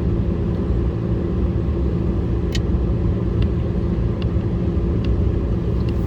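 Steady low road rumble of a car driving, heard from inside the cabin, with a constant low engine hum and a few faint ticks.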